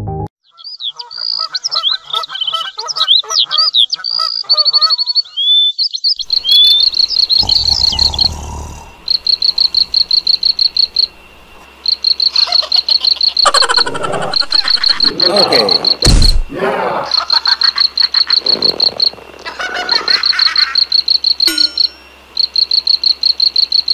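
Added nature sound effects: whistling birdsong at first, then a high, rapidly pulsed chirping that repeats in short trains, like a night chorus of crickets or frogs. Louder, rougher noises come in over it for a few seconds in the middle, with a sharp knock among them.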